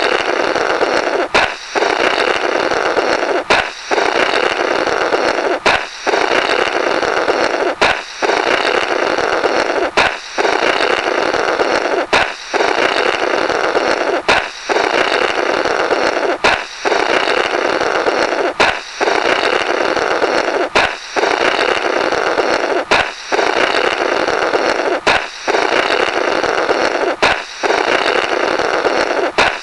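Looped comic 'blorrrt' sound effect: a balloon pops with a sharp crack, then a raspy blow through the burst rubber runs for about two seconds. The cycle repeats about every two seconds, some fourteen times.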